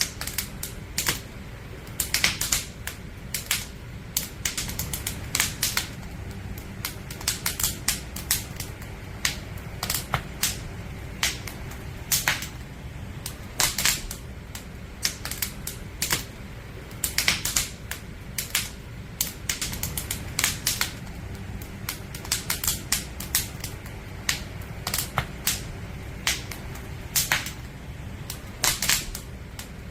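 Wood campfire crackling: burning logs giving irregular sharp pops and snaps, often several in quick clusters, over a steady low background.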